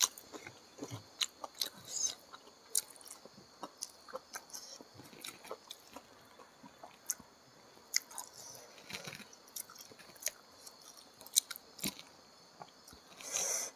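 Close-up chewing and wet mouth sounds while eating rice and fried chicken gizzard and liver in green chilli sambal by hand: scattered soft clicks and smacks, with one louder noisy sound near the end.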